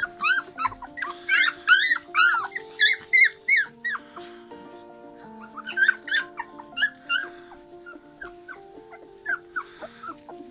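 A dog making quick runs of short, high squeaky whimpers, over held musical notes that change in steps. The squeaking drops out for a moment about four seconds in, then returns.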